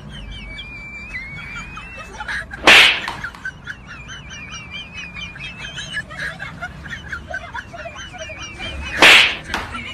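Small birds chirping steadily in quick, wavering twitters, with two loud, short bursts of noise like sharp hits, one about three seconds in and one near the end.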